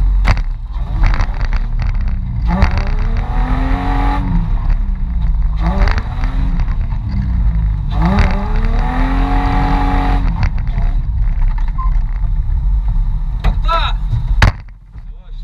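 Mitsubishi Pajero off-road rally car's engine under heavy load with a deep, steady rumble. The revs climb and fall twice, briefly around two to four seconds in and again for longer from about six to ten seconds in. The sound drops away suddenly near the end and is followed by a sharp click.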